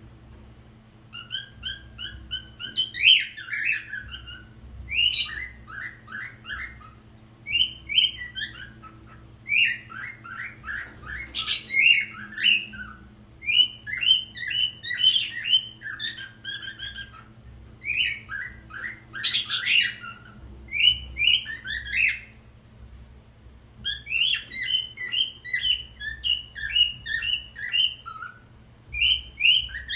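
A young male pet karawan bird singing its mating song: repeated phrases of short, piping notes that run down in pitch, one phrase every second or two with brief pauses between.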